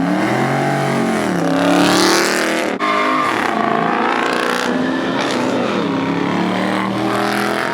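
Car engine revved hard again and again, its pitch climbing and dropping with each blip, with a brief break about three seconds in.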